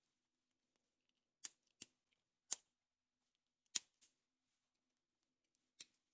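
Five sharp little plastic clicks and snaps at uneven gaps, from a surprise egg's toy capsule and its small plastic parts being handled, opened or snapped together.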